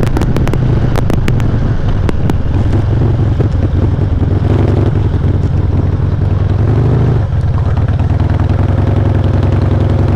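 Harley-Davidson V-twin engine running while riding, picked up loud and distorted by clipping on a helmet-mounted GoPro mic. The engine note rises briefly about two-thirds of the way through, then drops, as in a throttle change or gear shift.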